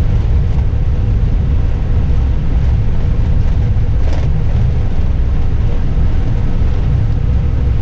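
Steady low rumble inside an Airbus airliner's cockpit while it taxis, with a faint steady hum above it and a brief click about four seconds in.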